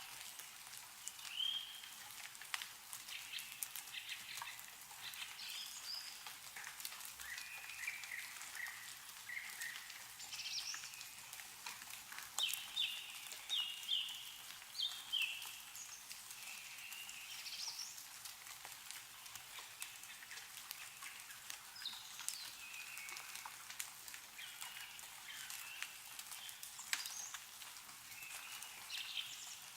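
Meltwater dripping from snow-covered trees, scattered drops pattering over a steady hiss, with small birds chirping on and off, including a quick run of chirps about halfway through.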